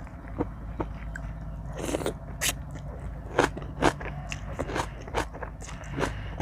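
Close-up eating sounds: a person biting and chewing crunchy food, with a string of sharp, irregularly spaced crunches.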